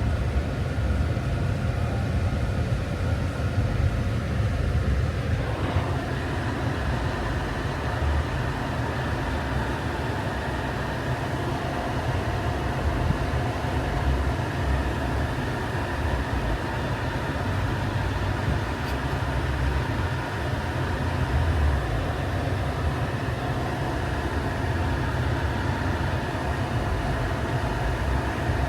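Steady road and engine rumble heard inside the cabin of a 2018 Jeep Compass while driving, deep and continuous; about five seconds in the noise turns rougher and fuller, as on a change of road surface.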